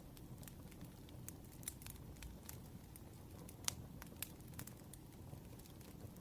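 Wood fire crackling: irregular sharp snaps and pops over a low steady rumble, faint overall, with the loudest pop about three and a half seconds in.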